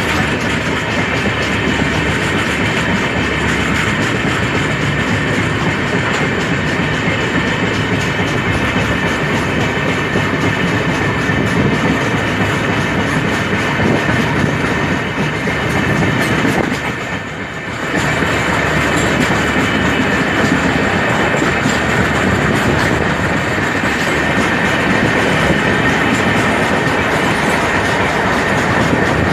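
Express train running at speed, its wheels making a steady rumble on the rails. The noise dips briefly about two-thirds of the way through.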